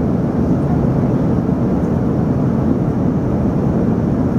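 Steady cabin noise of an Embraer ERJ-145 in flight: the rear-mounted Rolls-Royce AE 3007 turbofans running, with the rush of air over the fuselage, heard from inside the passenger cabin.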